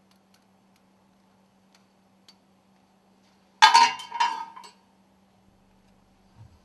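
Metal parts clinking together twice in quick succession about three and a half seconds in, each with a short ring, as stuffing box sealing ring segments are handled; a faint tick comes a little earlier.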